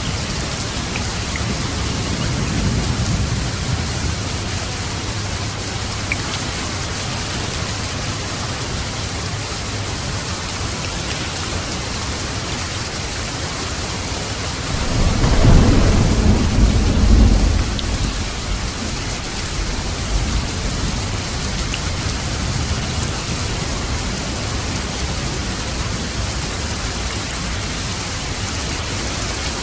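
Steady rain falling, with a low rumble of thunder about halfway through that swells for a few seconds and fades, and a fainter rumble a few seconds in.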